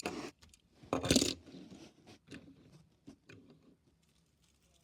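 Small diecast toy cars being handled: a sharp click, a louder clatter about a second in, then a run of light clicks and taps of hard little objects knocking together and set down.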